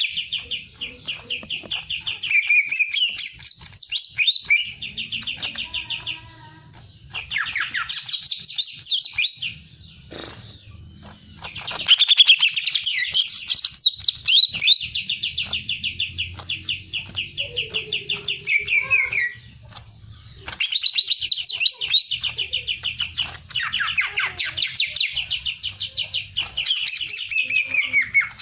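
Songbird singing energetically in long, fast trills of rapidly repeated high notes. The trills are mixed with quick sweeping phrases and broken by only brief pauses.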